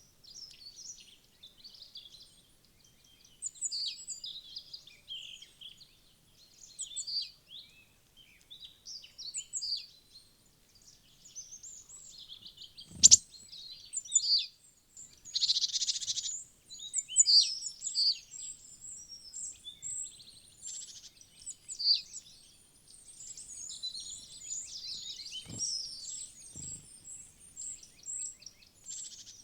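Wild birds chirping and calling continually in high, short notes, with one sharp knock about 13 seconds in and two fainter knocks near the end.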